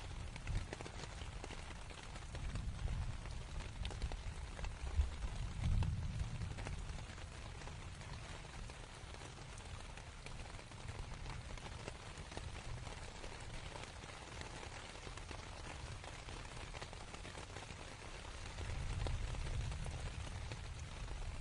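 Steady rain pattering on a canvas tent, with low rumbles of distant thunder swelling up twice, in the first few seconds and again near the end.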